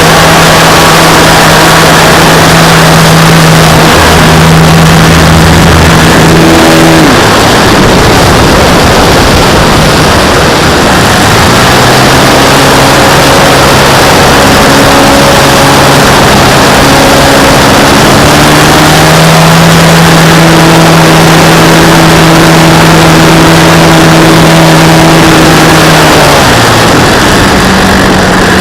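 RC model airplane's motor and propeller running, heard from a camera mounted on the plane, under heavy wind rush. The hum's pitch steps down and back up several times as the throttle changes.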